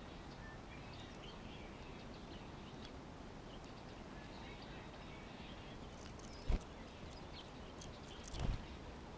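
Small songbirds giving faint, short chirps over a steady outdoor background hiss, with a sharp knock about two-thirds of the way through and a duller thump near the end.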